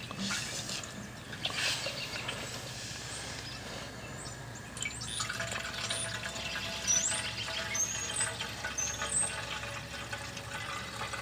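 Charcoal lighter fluid being poured from its bottle into a push mower's fuel tank: a steady pouring and filling of liquid. Short high bird chirps come in over it in the second half.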